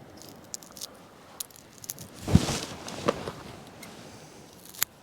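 Scattered light clicks and rattles of handling, with a heavier thump a little over two seconds in and a sharp click near the end.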